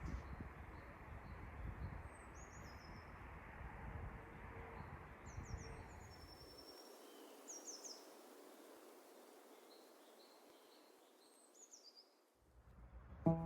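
Outdoor ambience: wind rumbling on the microphone, with a small bird giving short high chirps every second or so. The rumble drops away about halfway through, leaving only the faint chirps.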